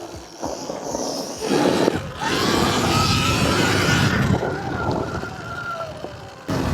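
Electric dirt bike motor whining under a rushing noise, the whine rising slightly in pitch about two seconds in as the bike accelerates.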